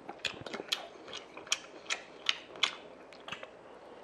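Close-miked chewing of a mouthful of rice and soup, with wet mouth smacks coming as sharp clicks about two or three times a second. The smacks thin out near the end.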